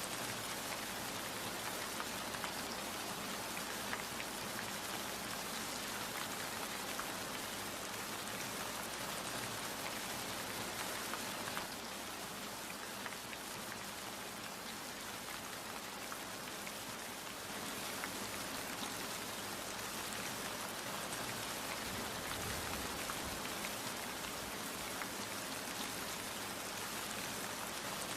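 Steady rain falling, with a dense patter of individual drops hitting a surface. It eases slightly for a few seconds around the middle, then picks up again.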